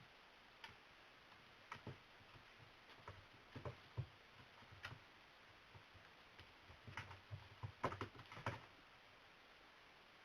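Faint, irregular taps and soft knocks of a cat batting and pouncing on a toy, with a quick flurry of taps near the end.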